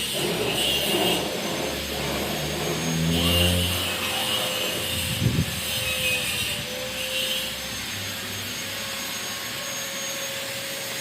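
Steady mechanical whine and hum of workshop machinery, with an engine-like tone rising in pitch about three seconds in and a single sharp knock about five seconds in.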